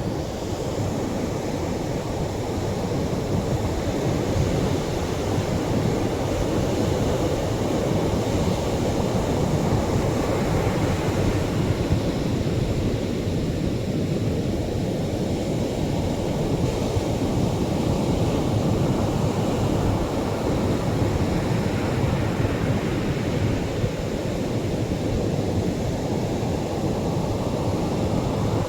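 Atlantic surf washing onto the shore: a steady rush of breaking waves that swells and eases every several seconds.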